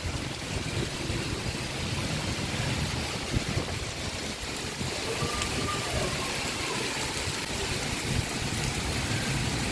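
Heavy monsoon rain falling: a steady, even hiss with an uneven low rumble beneath it.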